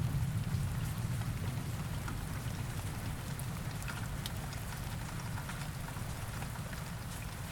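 Steady rain with scattered drops pattering. The low rumble of a thunderclap dies away over the first second or two.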